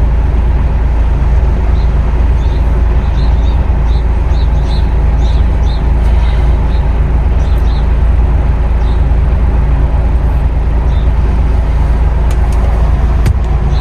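Heavy truck's diesel engine and road noise, a steady low drone that holds even throughout. A run of faint high chirps sits over it for several seconds.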